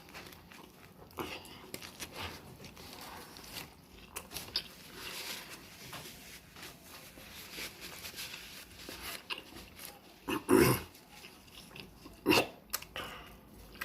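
Close-up chewing and biting of a turkey and cheese sandwich, with many small wet smacks and crunches. Two louder, sudden sounds break in near the end.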